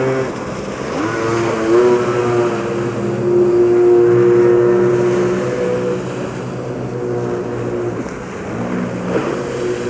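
Racing jet skis running at full throttle as the pack goes by, their engine whine rising about a second in, loudest around four seconds in, then dropping lower near the end.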